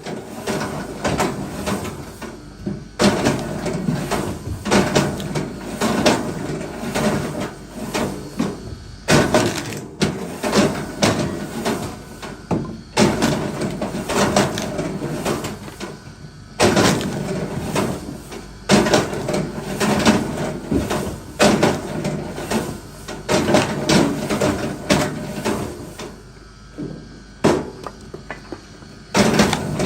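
Wood being handled and worked: irregular knocks, thuds and clatter that go on throughout, with a few quieter gaps.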